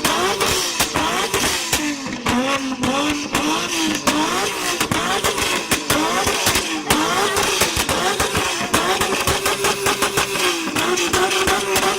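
Modified Nissan Skyline R34 GT-R's twin-turbo straight-six held at high revs, its pitch repeatedly dipping and climbing back up, with a stream of sharp pops and cracks from the exhaust throughout.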